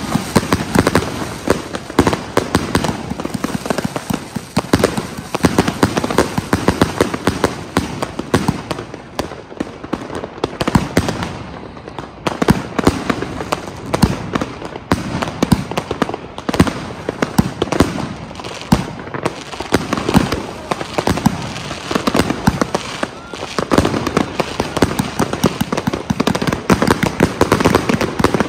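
Consumer firework cakes firing: a dense, continuous string of sharp bangs and crackles, many a second, with brief lulls.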